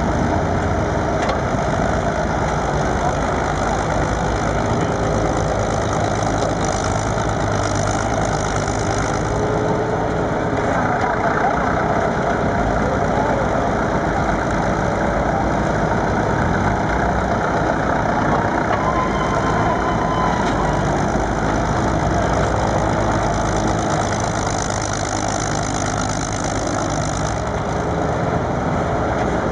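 Volvo D47 diesel engine of a 1960 Åkerman 475 cable backhoe, running steadily.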